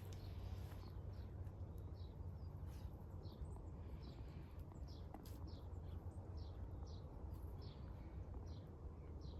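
A small bird chirping over and over: short, high, slightly falling notes about twice a second, over a low steady hum.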